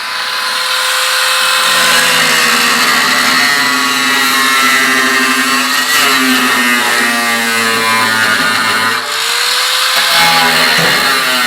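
A power tool working the steel stove barrel: its motor runs steadily with a rough cutting noise, slows briefly about nine seconds in, then winds back up.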